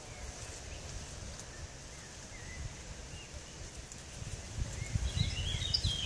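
Outdoor ambience of small birds chirping: a few faint chirps, then a quick cluster of higher chirps near the end, over a low rumble that swells with dull thuds in the last second or two.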